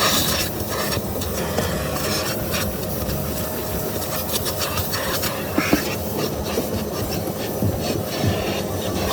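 Car wash vacuum running steadily with a whooshing hiss, its nozzle rubbing and clicking over surfaces as it cleans out cracks and crevices.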